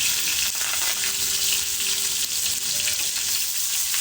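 Wood cooking fire hissing and crackling steadily, with sharp little crackles over a dense hiss.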